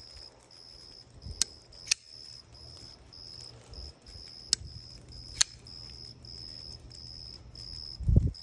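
Four sharp clicks from a ball-bearing flipper knife's action, two close together about a second and a half in and two more around five seconds in. Under them an insect chirps steadily in pulses of about two a second, and there is a low thump near the end.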